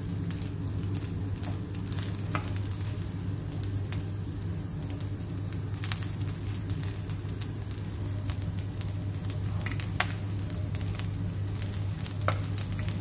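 Fried rice with ham and mixed vegetables sizzling in a nonstick pan as a spatula stirs and turns it, over a steady low hum. Scattered clicks of the spatula against the pan, the sharpest about ten seconds in and near the end.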